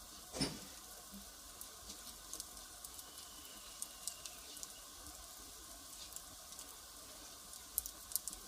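Firewood fire crackling: a steady soft hiss with scattered sharp pops and snaps, the loudest a single pop about half a second in and a quick run of snaps near the end.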